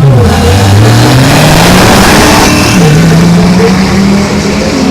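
Drag-racing car engine accelerating hard through its gears, very loud: the engine pitch falls at a gear change right at the start, climbs for a couple of seconds, falls again at a second shift about three seconds in, then climbs again.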